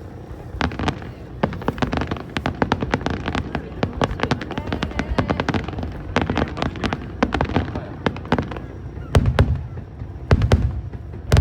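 Aerial fireworks bursting in a rapid, dense string of sharp cracks and bangs that starts under a second in, with the heaviest deep booms about nine and ten seconds in.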